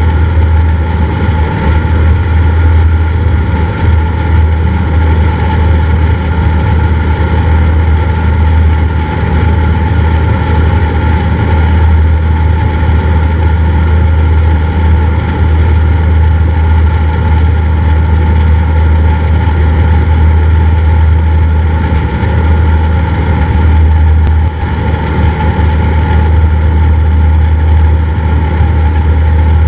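Cessna 172's piston engine and propeller running with a steady drone, dipping briefly in level once near the end.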